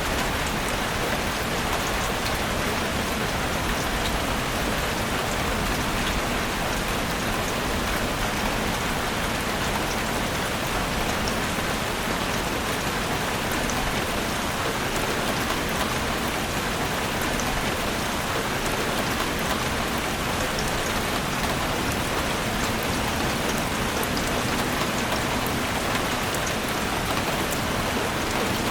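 Steady rain falling in a forest, an even hiss of drops with small distinct drips pattering through it.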